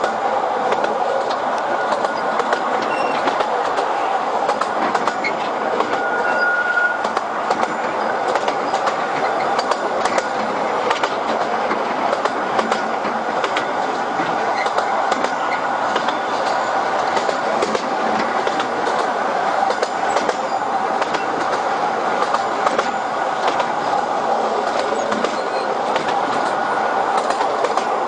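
Narrow-gauge tourist train of open carriages running along the track, heard from inside an open-sided carriage: a steady rattle and rumble of wheels on rails, with frequent small clicks. A brief squeal comes about a quarter of the way in.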